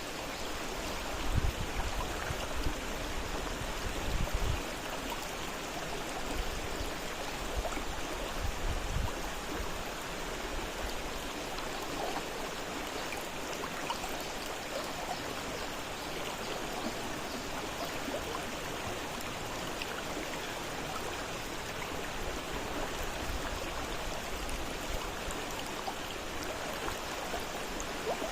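Fast-flowing river water rushing steadily, with a few brief low rumbles in the first ten seconds.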